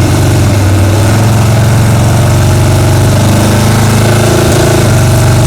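A 1969 Chevrolet Chevelle's engine running on a chassis dynamometer, loud and steady, with a slight step in pitch near the end.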